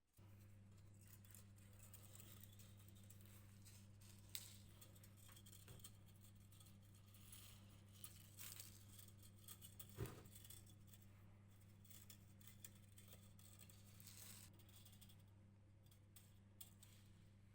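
Faint, steady low hum that starts suddenly, with scattered light clicks and scratches over it; the sharpest click comes about ten seconds in.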